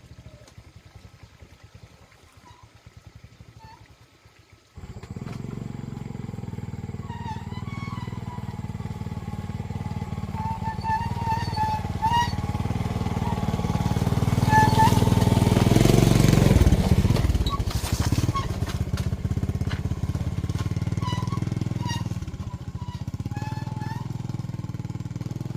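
Motorcycle engine running. It starts suddenly about five seconds in, grows louder to a peak around the middle, then eases off.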